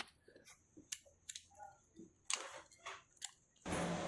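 Scattered small metallic clicks and light knocks of hand work on a scooter engine as the timing chain and cam sprocket are fitted. A steady hiss comes in near the end.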